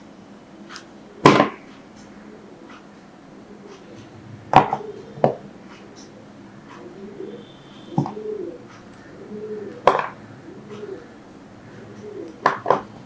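A knife cutting through glycerin soap: about seven short, sharp cuts at irregular intervals, two of them in quick succession near the end.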